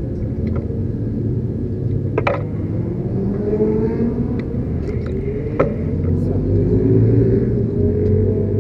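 BMW S1000RR's inline-four engine idling steadily in neutral, with two sharp clicks about three seconds apart.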